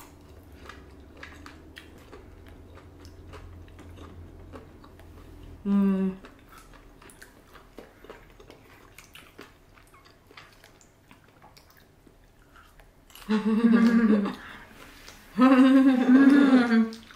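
Close-miked chewing of sushi, soft wet clicks of mouths working through fish and rice. A short vocal 'mm' comes about six seconds in, and two longer loud vocal sounds near the end.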